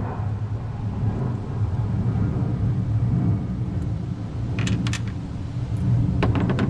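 Steady low rumble with a few sharp metallic clicks from work on the Jeep's hood-latch hardware, a cluster about two-thirds of the way in and another near the end.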